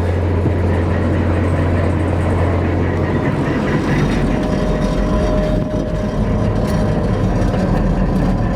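Massey Ferguson 760 combine's six-cylinder Perkins turbo diesel running on an electric fuel pump. About three seconds in, its steady low hum gives way to a lower, less even note.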